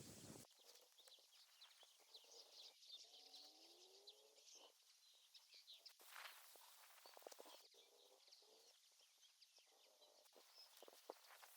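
Quiet outdoor ambience: faint bird chirps scattered throughout, with a few small clicks and rustles.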